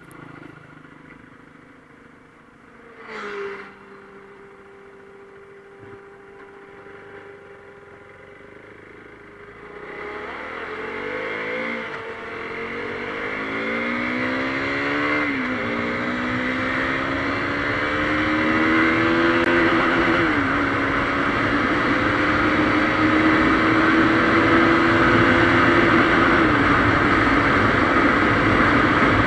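KTM Duke 390's single-cylinder engine idling, with one short rev blip about three seconds in. About ten seconds in it pulls away and accelerates up through the gears, the engine note rising and dropping back at each of several shifts as wind noise builds.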